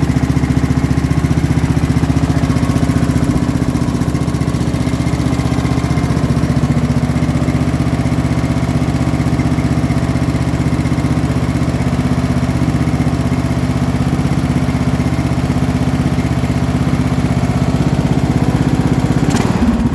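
Murray lawn tractor's engine idling steadily with no surging, running on old gas. Near the end its note changes as it is given more throttle, and it begins to die.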